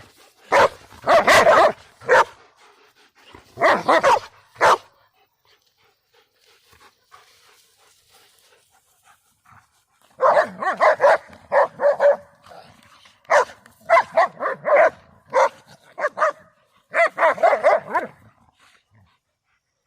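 Dogs barking in rapid bursts of short barks, with a quiet spell of several seconds in the middle.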